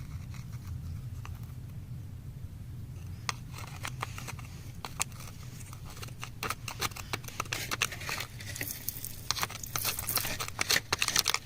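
Metal tweezers clicking and scraping against small stones and grit: scattered sharp ticks from about three seconds in, coming faster and louder toward the end, over a steady low hum.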